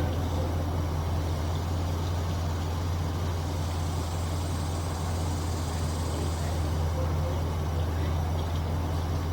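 An engine idling steadily: an even, unbroken low hum.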